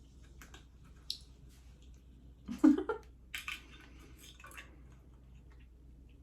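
Close-up eating sounds of someone chewing barbecue pork ribs: wet mouth clicks and smacks, with one louder wet mouth sound a little before the middle.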